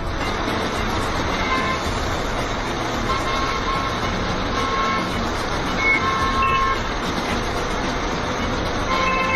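Vehicle engines and traffic noise, with short beeping tones sounding again and again at uneven intervals.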